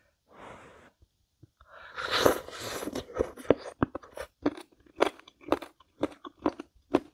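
Close-up mouth sounds of a person biting into crunchy food, then chewing it with crisp crunches about twice a second.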